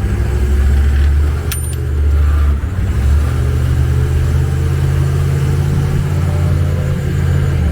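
HMMWV diesel V8 engine running steadily with the truck under way, with a brief dip in level about two and a half seconds in. A single short click about a second and a half in.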